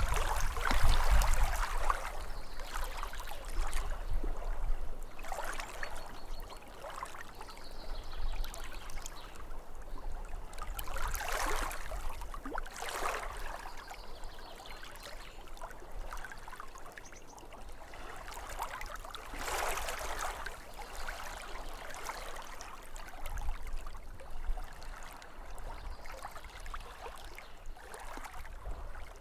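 Small waves lapping at a lake shore, a steady wash of water with louder laps now and then, with faint bird calls in the background.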